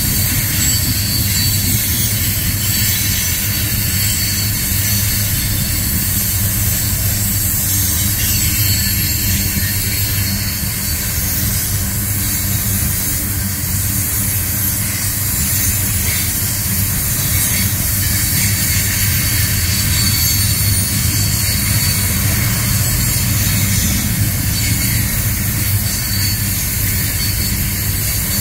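Coal train gondola cars rolling past: a steady rumble of steel wheels on rail, with a high hiss over it.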